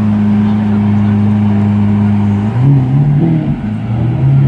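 Lamborghini Aventador SV's V12 idling steadily, then its pitch rising and wavering as the car pulls away slowly, about two and a half seconds in.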